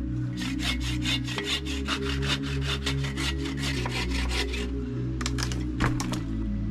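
Hand saw cutting through a wet log in quick, regular strokes that stop about four and a half seconds in, followed by a few single knocks.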